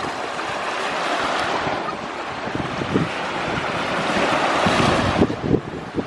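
Sea waves washing in, a rushing surge that swells and then eases. Wind buffets the microphone with low thumps, more often near the end.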